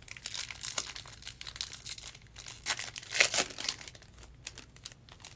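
Crinkling and rustling of trading card packs being handled and torn open, in irregular bursts, loudest just past three seconds in.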